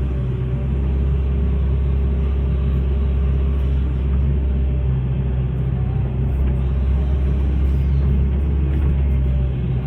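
Hitachi excavator's diesel engine running with a steady low rumble.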